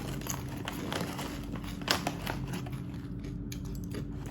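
Plastic snack wrapper crinkling as it is handled: a run of irregular small crackles and rustles.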